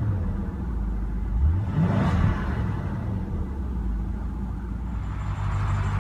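The 2016 BMW 750i xDrive's 4.4-litre twin-turbo V8 idles steadily, with one brief rev about two seconds in.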